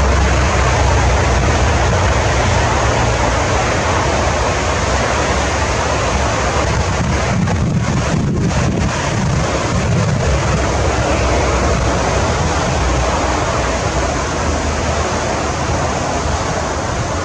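Wind buffeting the camera microphone: a loud, steady rushing noise with a heavy low rumble that swells and eases slowly. No bird call stands out.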